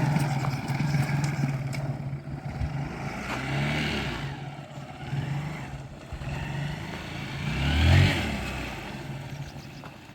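Motorcycle engine idling through a plastic bottle tied over its exhaust silencer as a home-made sound mod, revved three times, the loudest rev about eight seconds in.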